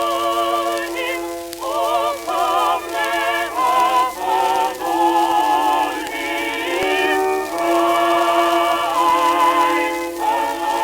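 Early shellac phonograph record playing: a singer in operatic style holds notes with wide vibrato over a steady sustained accompaniment. The sound is thin and narrow, as on an early acoustic recording.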